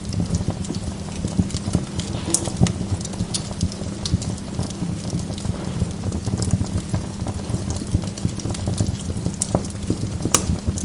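Wood log fire burning in a fireplace: dense, steady crackling over a low rumble of flame, with a few sharper pops, the loudest near the end.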